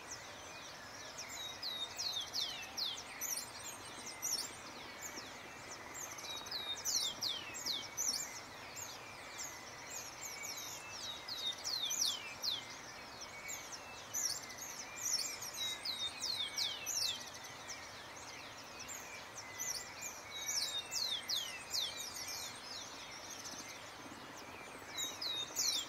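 Forest birdsong: a bird sings phrases of quick, sharply falling high notes, repeated about every four to five seconds, over a steady background hiss.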